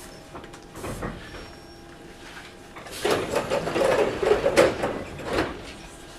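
Inside a Toyohashi Railway 1800 series train car: a steady low background, then a loud rattling clatter of many quick strokes that starts about three seconds in and dies away after about two and a half seconds.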